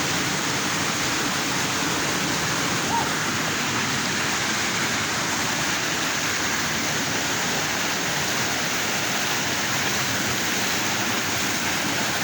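River water rushing steadily, with one short high note about three seconds in.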